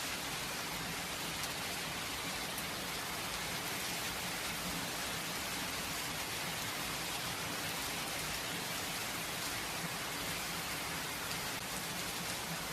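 Steady rain falling and pattering on surfaces, an even hiss with scattered drop ticks and no thunder.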